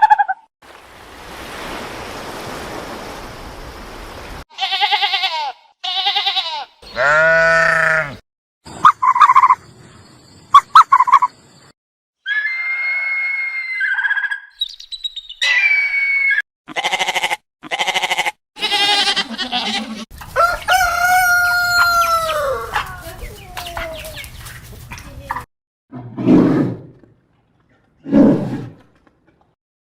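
A series of different farm-animal calls one after another with short gaps between them, including a rooster crowing.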